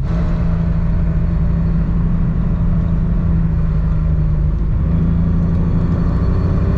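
BMW N54 inline-six engine pulling under load, heard from inside the moving car as a steady engine drone over road rumble.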